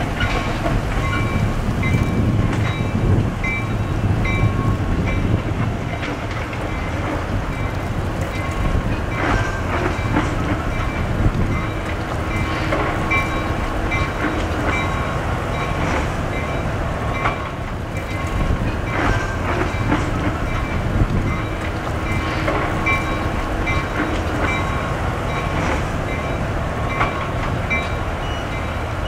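CN freight train rolling past, with a steady rumble and steel wheels clicking over rail joints. A short high ringing tone repeats about twice a second throughout.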